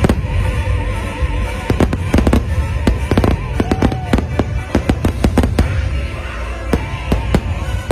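Aerial fireworks bursting in quick clusters of sharp bangs, with the show's music playing underneath.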